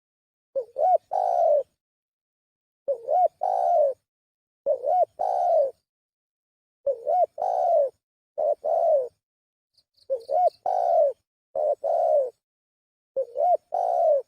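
Spotted dove (tekukur) calling as a recorded lure call: eight repeated phrases, each a short rising-then-falling note followed by a longer coo, with dead silence between them.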